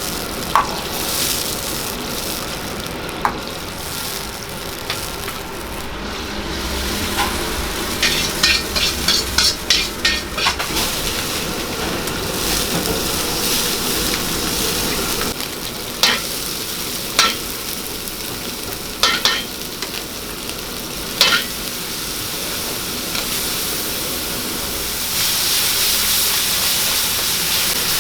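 Stir-frying in a wok: food sizzling steadily while a metal ladle scrapes and knocks against the pan. About eight seconds in comes a quick run of strokes, followed by a few single sharp knocks. The sizzle grows louder near the end.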